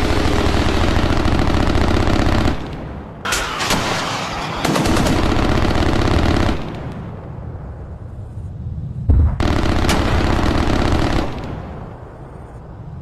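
Rapid, continuous runs of bangs in three long bursts, with a heavy low thump as the third burst begins about nine seconds in.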